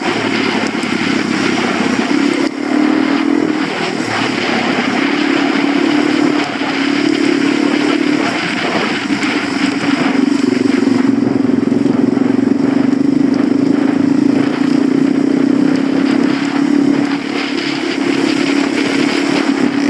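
Suzuki DR-Z400 dirt bike's single-cylinder four-stroke engine running under way, its note holding fairly steady with small rises and falls in revs, over a constant rushing noise.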